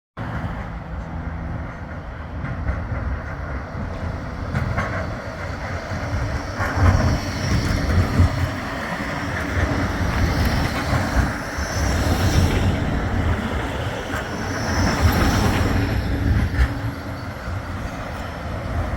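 Bombardier Flexity 2 light-rail tram running along the track with a steady low rumble, and a few brief high squeals now and then.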